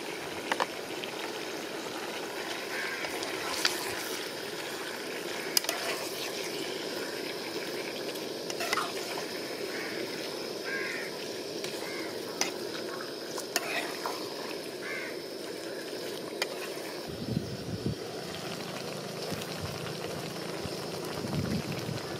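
Chicken livers sizzling in a pot on a portable gas stove, with scattered clicks and scrapes of a metal spoon stirring them against the pot. Low gusts of wind buffet the microphone in the last few seconds.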